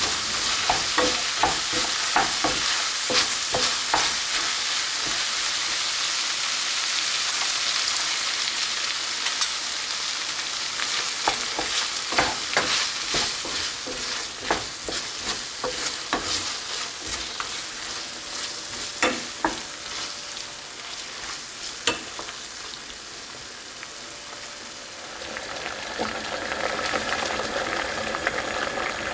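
Food sizzling as it is stir-fried in a hot pan, with frequent sharp clicks of the utensil against the pan. Near the end the sizzle gives way to a quieter bubbling.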